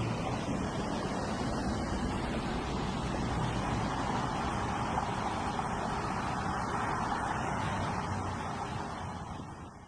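Steady rushing background noise with a low hum, fading out at the very end.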